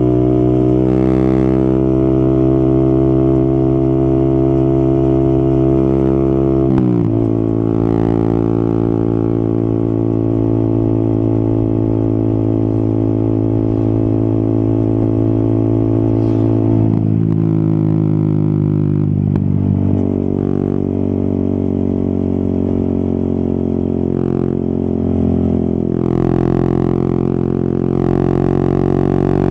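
Yamaha XSR 155's single-cylinder engine running under way on the road, its note holding steady, dropping sharply about seven seconds in as a gear is changed, sagging and wavering around the middle and changing again near the end.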